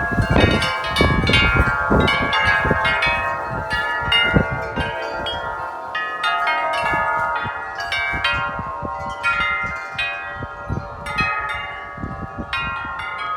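Large tubular wind chimes struck rapidly and continuously by strong gusts, many overlapping ringing tones. Wind buffets the microphone in the first few seconds.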